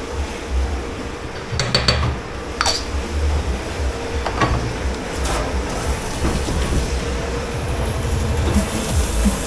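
Commercial dish pit at work: a steady low machine rumble and hum, with sharp ringing clatters of crockery or metal pans a couple of seconds in, and a high hissing rush from about halfway that cuts off suddenly.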